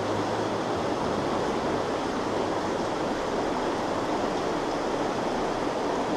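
Steady, even rush of a small trout stream's flowing water.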